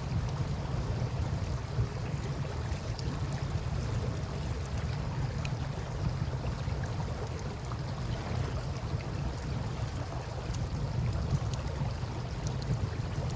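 Wood campfire crackling with scattered small pops over the steady low rush of flowing river water.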